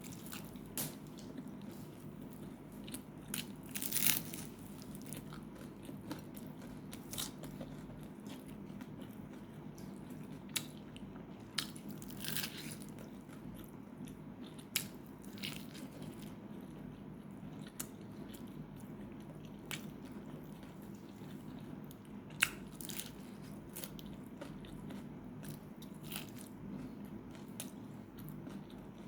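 Close-up eating sounds of fried chicken: crisp crunches as the batter is bitten, coming irregularly every second or two, with chewing between them over a steady low hum.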